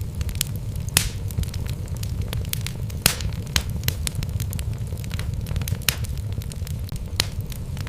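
Wood fire burning in a fireplace, logs crackling with irregular sharp pops and snaps over a steady low rumble of the flames. Louder pops come about a second in and about three seconds in.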